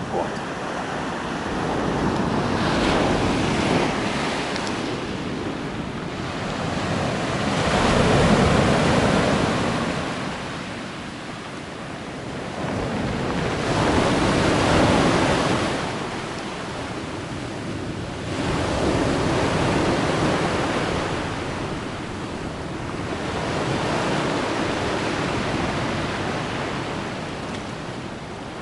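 Sea waves rolling in and washing on the shore, swelling and ebbing in slow surges about every five to six seconds.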